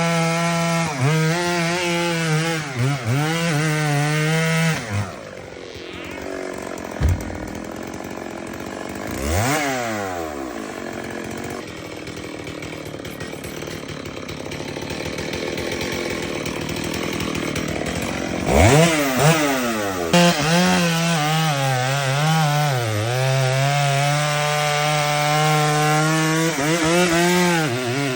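Chainsaw cutting wood, its engine pitch dipping again and again as the chain bites. About five seconds in it drops to a quieter stretch with one quick rev. From about eighteen seconds it is back to cutting under load.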